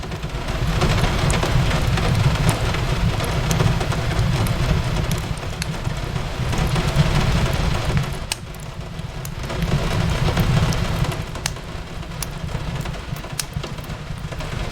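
Steady rain over a low rumble that swells and eases every few seconds, with scattered sharp crackles and pops of a wood fire burning in a fireplace.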